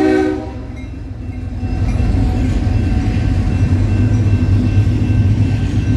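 A diesel freight locomotive's air horn chord cuts off about a third of a second in. Then the low rumble of the diesel locomotives builds as the train passes.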